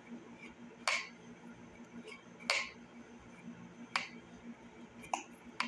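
About five short, sharp clicks spaced a second or so apart, from small carburetor parts being handled and set down while reassembling a motorcycle carburetor, over a faint steady hum.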